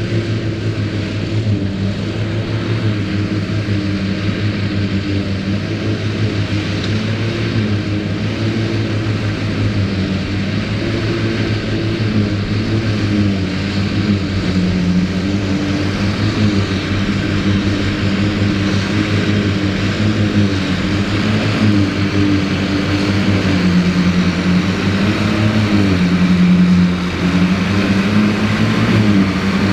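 Ford 8630 tractor's diesel engine working under steady load as it drives a Mengele SH40N forage harvester, the harvester's chopping and blowing adding a rushing noise. The engine note wavers a little with the load, dipping briefly near the end.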